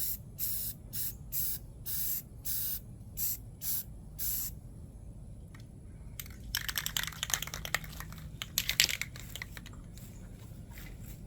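Rust-Oleum gloss spa blue spray paint hissing from an aerosol can in about ten short bursts, stopping after about four seconds. A few seconds later comes a patch of crackling, rustling clicks with one sharp click.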